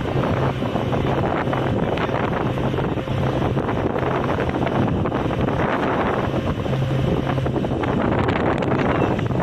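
Wind buffeting the microphone over the steady low hum of a ferry's engine.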